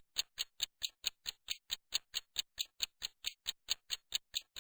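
Quick, even ticking of a clock-style timer sound effect, about four to five ticks a second, counting down the pause in which the learner is to say the sentence.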